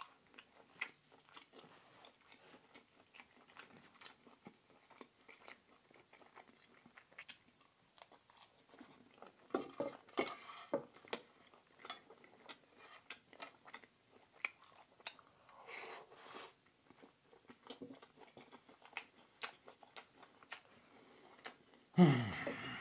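Close-miked chewing and biting with light crunches and wet mouth clicks, of food the eater has just called dry, almost like a cracker. A louder mouth sound comes just before the end.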